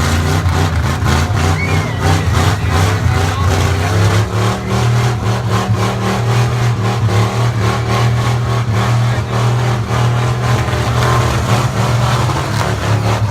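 Large lifted truck's engine running hard at high revs, a loud steady drone with a rapid pulsing beat.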